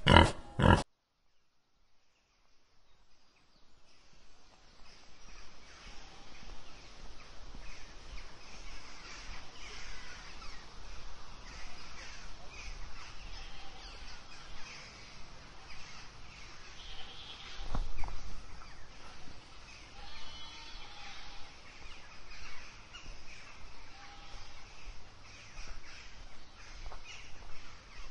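A pig grunts loudly twice right at the start, then after a brief silence an outdoor bird-filled ambience fades in, with birds calling on and off and a single dull thump about halfway through.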